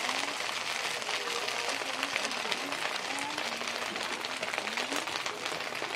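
Egg-and-glass-noodle dumplings sizzling in oil on a flat-top griddle: a steady, dense crackle of frying.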